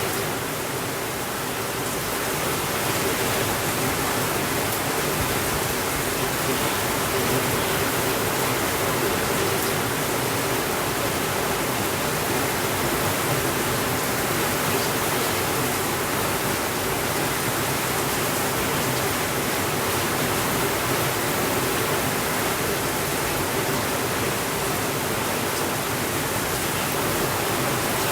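Steady rainfall, a continuous even hiss with no thunder.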